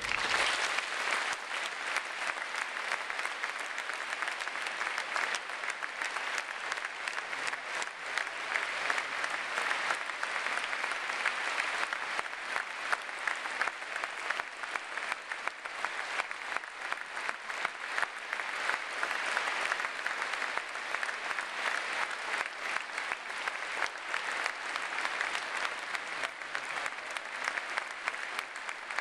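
Audience applauding: dense, sustained clapping from many people that starts suddenly and keeps up at a fairly even level.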